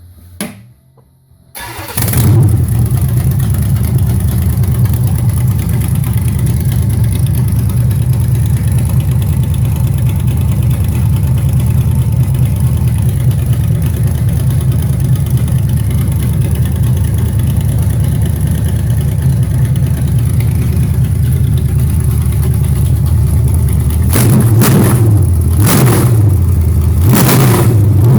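Carbureted 350 cubic-inch V8 with a Holley 600 double-pumper carburettor and a mild hydraulic cam, bored .030 over, starting up about two seconds in and then running steadily at a fast idle. Near the end it is revved with several quick throttle blips.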